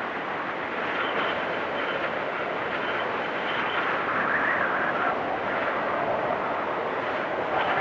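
Blizzard wind blowing steadily, with a higher-pitched swell rising and falling about four seconds in.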